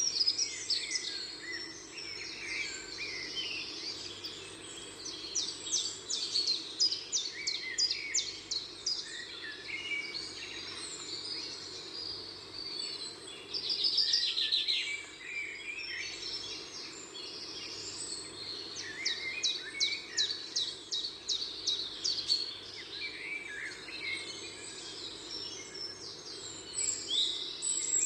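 Several birds chirping and singing, with repeated fast trills, over a faint steady hum.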